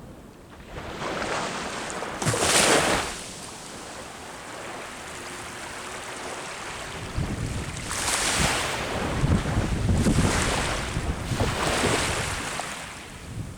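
Sea waves breaking on the shore, in two surges: a short one a couple of seconds in and a longer one in the second half, with wind rumbling on the microphone underneath.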